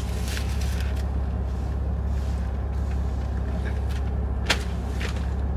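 Steady low rumble of a car idling, heard from inside the cabin. Over it come a few short rustles of the wig and its plastic packaging being handled, and one sharp tap about four and a half seconds in.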